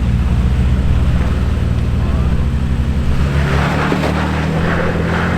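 Off-road truck engine running at low revs while crawling over rock, its pitch rising a little about three seconds in as a rougher scraping noise joins.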